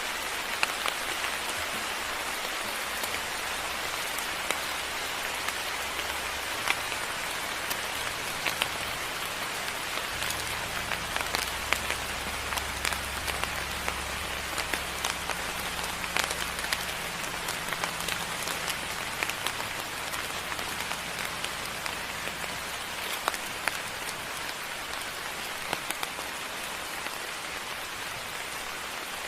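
Steady moderate rain falling, with many individual drops ticking sharply on nearby surfaces. A low rumble comes in about six seconds in and fades out around twenty seconds in.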